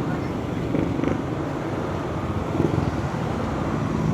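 Vehicle engine running steadily on the move, a low even rumble with road and wind noise.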